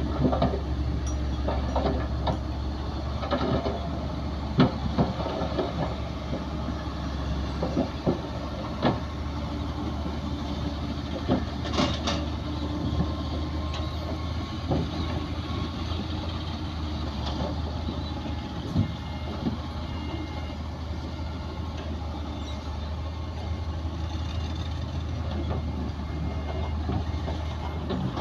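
Heavy diesel earthmoving machinery running steadily, with scattered knocks and clanks, most of them in the first ten seconds.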